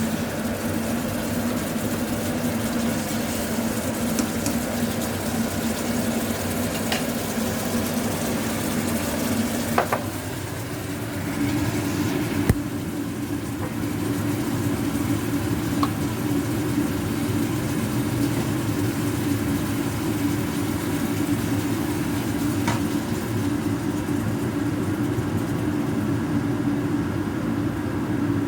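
Food sizzling as it fries in hot oil in a pan, over a steady low hum that shifts slightly in pitch about a third of the way in. A few light clicks of utensils are scattered through.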